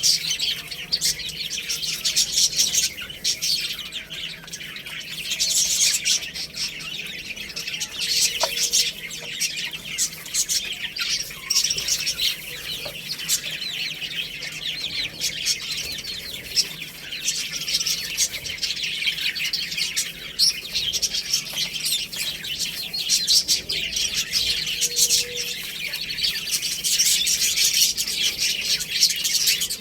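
Many small birds chirping and twittering at once, a dense, unbroken chorus of short, high, overlapping calls.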